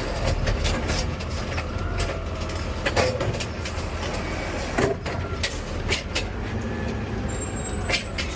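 Garbage truck running, its engine a steady low rumble heard from the cab, with scattered clunks and rattles, the loudest about three, five and eight seconds in.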